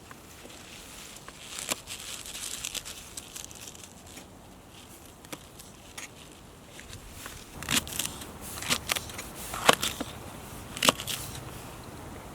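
Rustling and handling noise broken by scattered sharp clicks and snaps, which come thickest and loudest from about eight to eleven seconds in.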